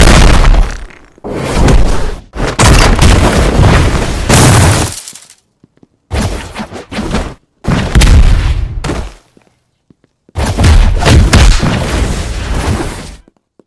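A run of extremely loud, distorted booming noise bursts, about six of them, each lasting one to three seconds, broken by abrupt gaps of total silence.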